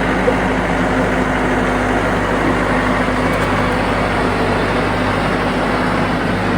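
TYM 574 tractor's diesel engine running steadily.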